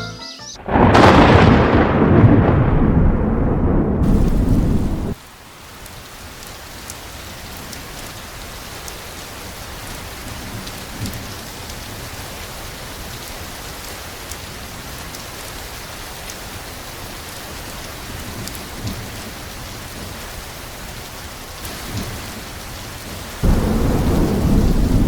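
Thunderstorm: a loud peal of thunder rumbling for about four seconds, then steady rain, then another peal of thunder near the end.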